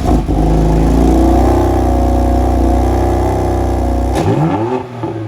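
BMW F80 M3's twin-turbo inline-six (S55) starting up and held at a high, steady flare for about four seconds. About four seconds in the revs fall away and it settles to a lower idle.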